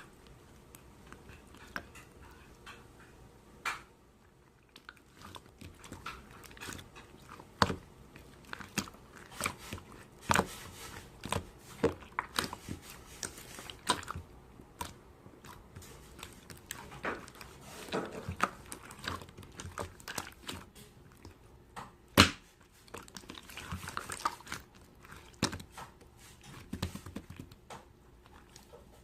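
Slime being squeezed and pressed by hand, making irregular wet clicks, crackles and pops, with one sharp loud pop about 22 seconds in.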